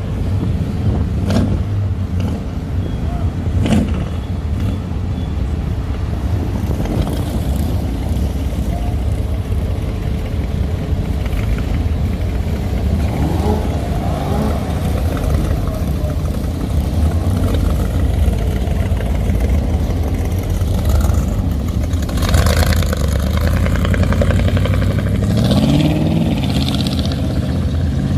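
Hot rod engines rumbling steadily as cars drive slowly out past. Near the end one engine revs up with a rising pitch.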